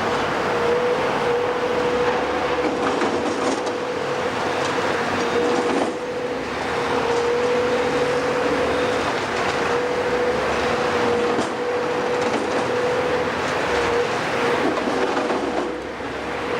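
Heavy demolition machinery running, with a steady high whine held throughout and a few knocks and clanks over a constant mechanical noise.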